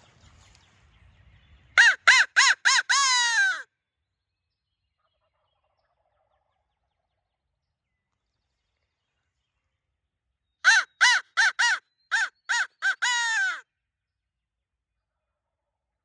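Two runs of loud crow caws, about six to eight quick caws each at roughly four a second, the last caw of each run drawn out and falling. The runs come a few seconds apart.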